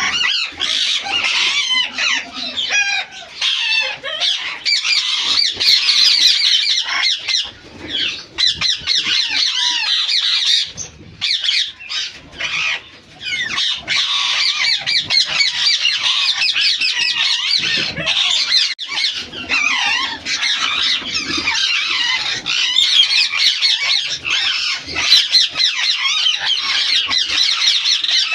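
A flock of aviary ringneck parakeets chattering and squawking, many birds calling over one another in a dense, high-pitched din that thins briefly about eleven seconds in before filling back up.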